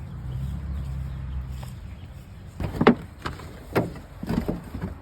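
A low steady rumble for the first couple of seconds, then a run of about five loud knocks and bangs, the loudest about three seconds in.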